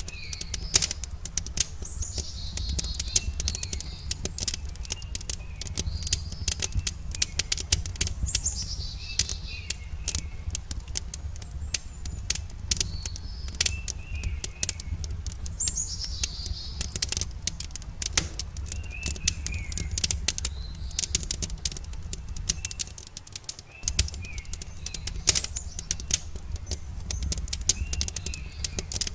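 Wood campfire crackling, with many sharp pops over a steady low rumble. Songbirds call over it: a high, downward-sweeping call about every six seconds and short, lower chirps between.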